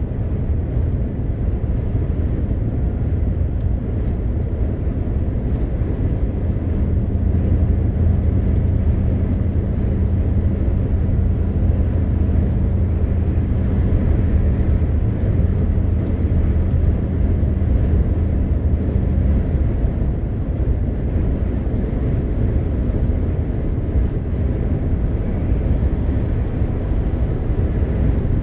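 MAN TGX 520 truck driving at road speed: a steady low drone of its six-cylinder diesel engine mixed with tyre and road noise. A low engine hum stands out from about six seconds in until about twenty seconds in.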